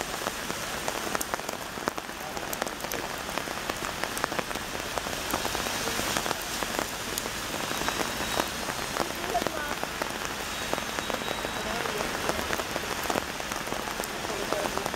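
Heavy rain falling steadily on a city street: a dense, even hiss with many sharp drop ticks scattered through it.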